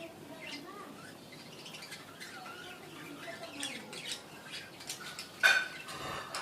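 Budgerigars chirping and chattering in short scattered calls, with one much louder squawk about five and a half seconds in.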